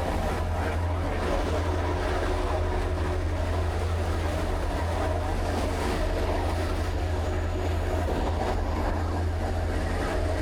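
Car ferry's engines running with a steady low drone.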